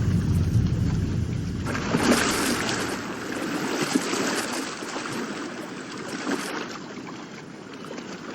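Sea water churning and splashing, with a low rumble over the first second or so.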